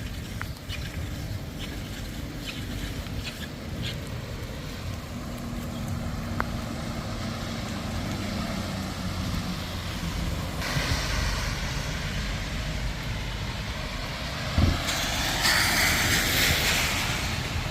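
Wind rumbling on the microphone while riding a bicycle on a wet street, with a few short squeaks early on. Tyre hiss on the wet road sets in partway through and grows louder near the end, as a vehicle passes.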